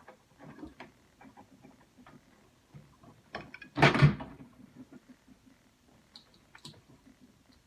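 Clicks and small rattles of wires and connectors being worked loose on a microwave oven's transformer, with one louder knock about four seconds in.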